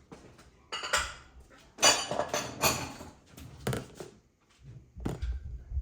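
Dishes and cutlery clattering and clinking in a run of short knocks, the loudest about two seconds in.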